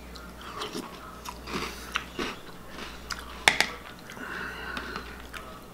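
Mouth sounds of someone eating a bowl of cereal: chewing and crunching, with scattered small clicks and one sharp clack about three and a half seconds in.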